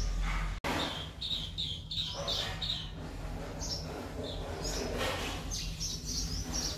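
Small birds chirping in strings of short, high calls over a steady low hum.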